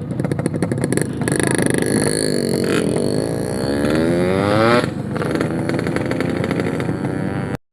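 Yamaha RX-King's 135cc two-stroke single-cylinder engine under way. The revs climb steadily from about two seconds in to nearly five, then drop sharply as the throttle closes, and it runs on at a steady pitch until the sound cuts off just before the end.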